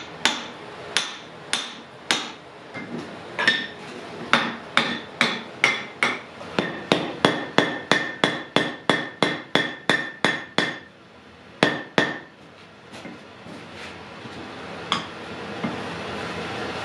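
Blacksmith's hammer striking the wrought-iron axe head on an anvil, a run of ringing blows about two to three a second that breaks off about ten seconds in, followed by a couple of blows near twelve seconds and a single one near fifteen.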